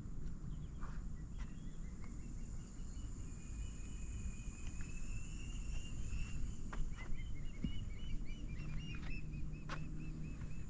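A bird chirping in a quick repeated series of short notes, over a steady high-pitched insect drone and a low wind rumble on the microphone.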